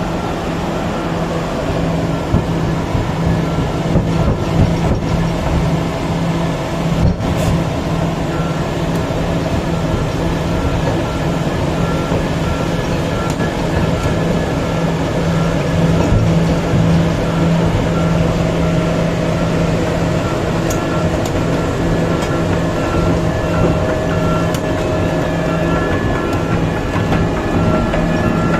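Komatsu PC3000 mining excavator running with a loud, steady engine drone. A repeating beep comes in about halfway through and continues.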